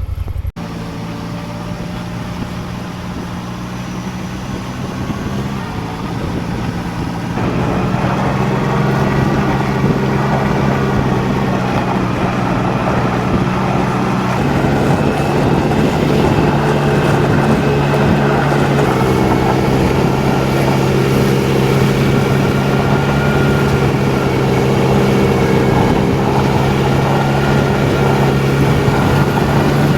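Can-Am Maverick side-by-side's engine running steadily while it is driven, getting louder about seven seconds in and staying louder after that.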